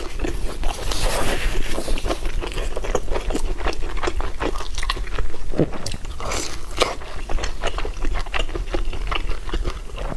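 Close-miked mukbang eating: a person chewing and biting food, with many quick, irregular crunches and clicks.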